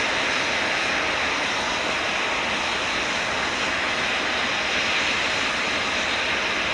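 Eurofighter Typhoon jet engines running, a steady, even rushing sound with a faint high whine held throughout.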